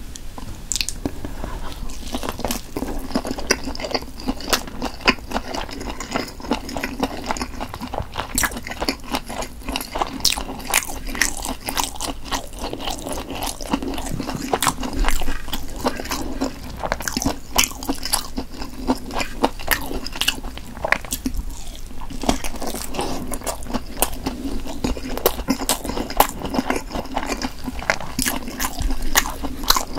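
Chewing and biting into a whole Korean blood sausage (sundae steak), a dense, irregular run of crisp crunching clicks.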